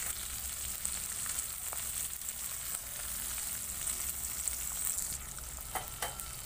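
Onion and green chillies sizzling in hot oil in a wok: a steady frying hiss, with a few small pops about five to six seconds in.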